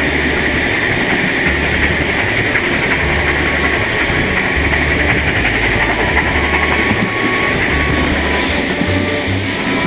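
Steam-hauled passenger train running along the track, heard from one of its carriages: a steady rumble and rail noise with the wheels clicking over the rail joints. A brighter hiss joins near the end.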